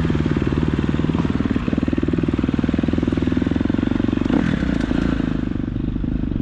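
KTM 250 dirt bike engine running at low, fairly steady revs.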